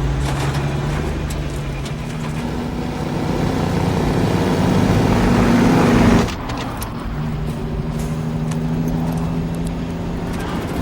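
Motor vehicle engine running steadily with road noise while driving. It grows louder, drops suddenly about six seconds in, then runs on at an even level.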